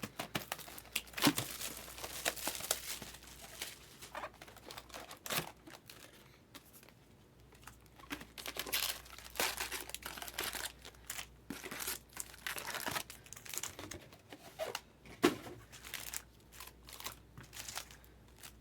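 Trading card packs being handled: wrappers crinkled and torn open in many short, irregular crackling bursts.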